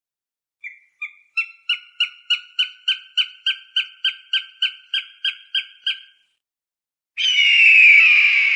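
Falcon calling: a rapid series of short, sharp notes, about four a second, rising slightly in pitch at first and running for some five seconds. After a short pause comes one longer, harsher scream that falls in pitch.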